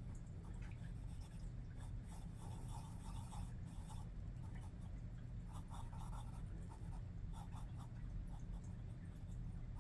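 Graphite pencil scratching on paper in quick strokes, sketching and shading, in irregular clusters over a steady low hum.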